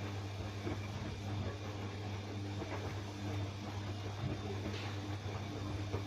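Bosch washing machine running a cotton wash cycle: a steady low hum with a few faint light ticks.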